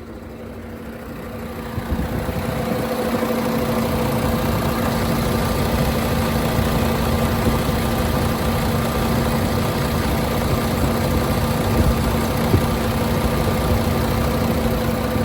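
Diesel engine of a 2010 International ProStar idling steadily under the open hood, growing louder over the first few seconds and then holding even, with a steady hum in it. The seller is showing the engine has no blow-by.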